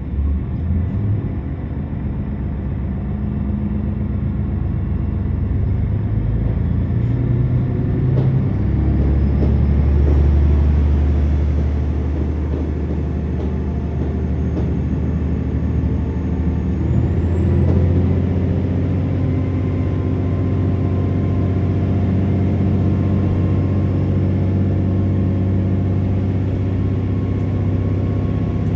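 KiHa 47 diesel railcar heard from inside the passenger cabin: the engine runs steadily, grows louder about eight seconds in, and a rising whine climbs for about ten seconds before holding steady as the train picks up speed.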